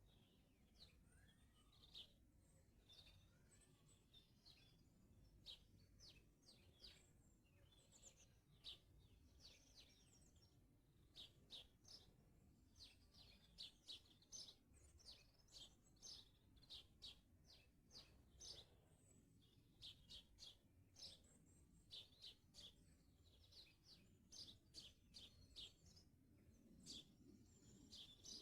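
Faint garden birdsong: quick, high chirping notes from small songbirds, coming thicker and faster from about ten seconds in.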